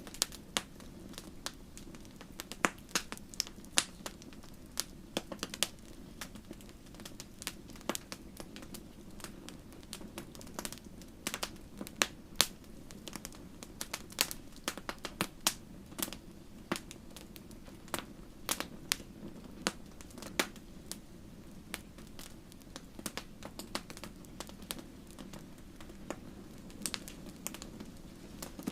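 Wood fire crackling: irregular sharp pops and snaps, several a second at times, over a steady low rumble of burning.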